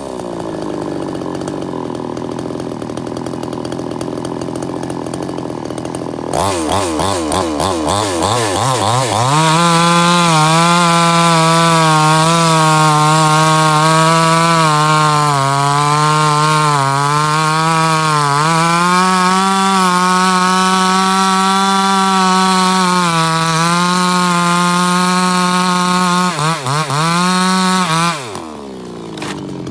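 Chainsaw engine idling, then revved up unevenly and held at high revs for about eighteen seconds. Its pitch sags now and then, then it falls back to idle near the end.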